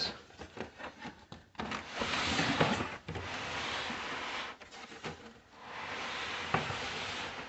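Cardboard packaging rubbing and sliding as a box is unpacked by hand, in three long stretches with a few light knocks.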